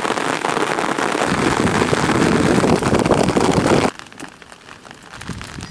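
Heavy rain pouring down steadily. About four seconds in it cuts off abruptly to a much quieter background with scattered light ticks.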